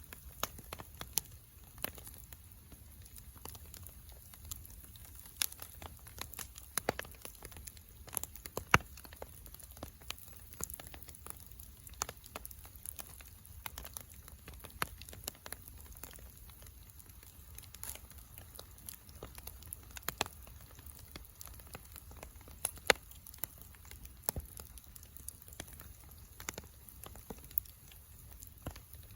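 Wood fire (takibi) crackling, with irregular sharp pops and snaps; one louder pop about nine seconds in.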